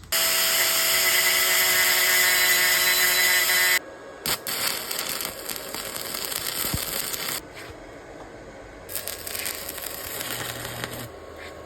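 Electric arc welding a bolt onto a steel motorcycle frame: a loud, steady hissing arc for about four seconds, then two shorter, quieter runs of crackling weld with a pause between them.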